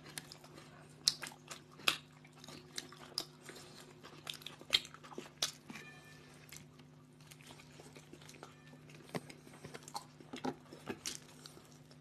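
Two people biting into and chewing toasted sandwiches: scattered, irregular crisp crunches and mouth clicks, over a faint steady hum.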